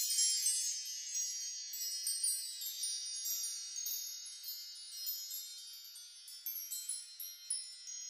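Fairy dust sound effect: a wash of many high tinkling chime notes, loudest at the start and fading gradually, with a few faint extra sparkles near the end.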